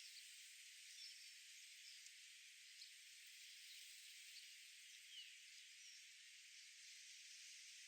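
Faint, steady high hiss of outdoor ambience, with a few brief, faint chirps from distant birds scattered through it.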